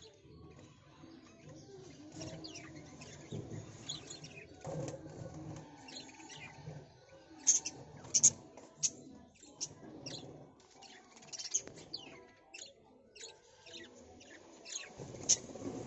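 Birds chirping: short, sharp high calls scattered throughout, with a loud cluster about halfway through and another loud call near the end, over a faint low background rumble.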